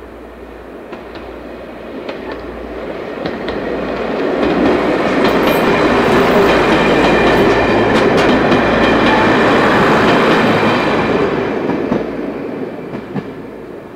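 Class 117 diesel multiple unit running past: its underfloor diesel engines and wheels clicking on the rails. It builds over the first few seconds, is loudest in the middle as the cars go by and fades away near the end.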